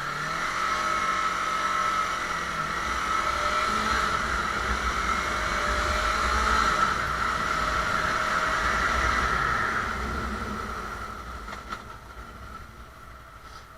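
Motorcycle riding along, its engine and road noise running steadily, then easing off after about ten seconds.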